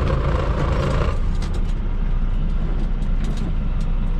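Semi-truck diesel engine running steadily, heard from inside the cab, with a hissing noise over it that stops about a second in, followed by a few light clicks.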